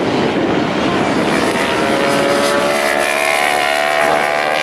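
Racing motorcycle engines running at high revs. From about a second and a half in, one engine's note climbs steadily as the bike accelerates.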